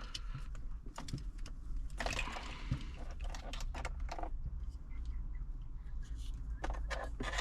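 Handling of the head unit's wiring harnesses and plastic parts: scattered light clicks and knocks with a short rustle about two seconds in, over a steady low hum.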